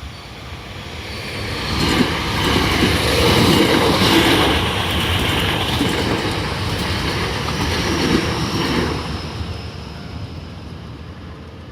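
Hankyu Railway electric train passing close by over a narrow level crossing, its wheels clacking over the rail joints. It swells over about two seconds, stays loud for about seven, then fades away.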